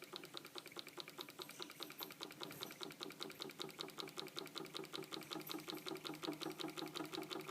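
Antique Stirling engine running, its mechanism clicking in a quick even rhythm, about seven times a second, and growing a little louder. It is quiet overall.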